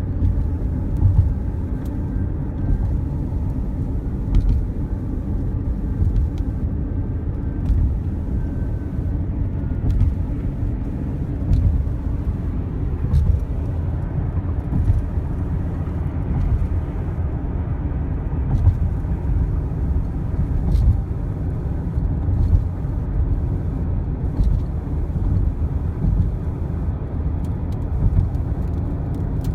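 A car driving at speed: a steady, low rumble of tyre and wind noise that swells and dips a little, with a few faint clicks.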